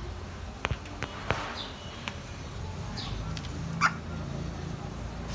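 Grey parrot making a few short, high chirps that fall in pitch, mixed with sharp clicks.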